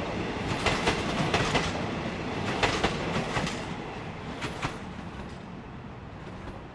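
Wheels of a locomotive-hauled passenger train clacking over rail joints as the carriages roll past, the clicks coming in quick pairs and groups over a steady rumble, then fading away about five seconds in.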